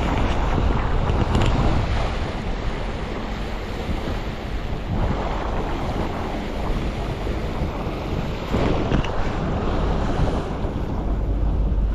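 Wind buffeting the microphone over water rushing past the hull of a yacht under motor, with a steady low hum of the inboard engine underneath.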